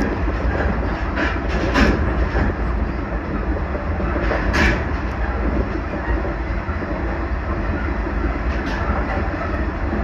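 JR Central 383-series Limited Express Shinano electric train running along the line: a steady rumble of wheels on rails, with a couple of sharper clacks from the track.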